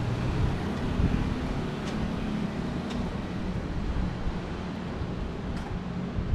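Street traffic noise: a steady low hum of nearby vehicle engines over general road noise, with some wind on the microphone.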